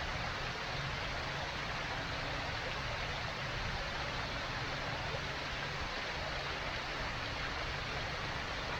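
Steady, even rushing noise at a constant level throughout, with no speech.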